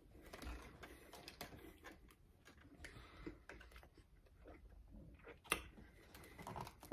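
Close-up chewing of a crispy fried burger: faint, irregular crunches and mouth clicks, with one sharper click about five and a half seconds in.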